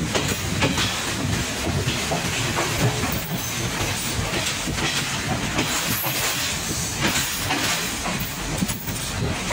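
Train running steadily on the rails, heard from aboard the carriage: a continuous rumble and rattle with a few faint knocks from the wheels.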